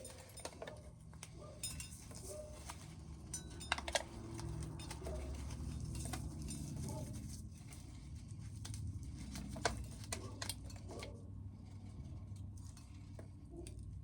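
Dry corn being shelled, with scattered sharp clicks and patter of kernels striking a container over a low rumble.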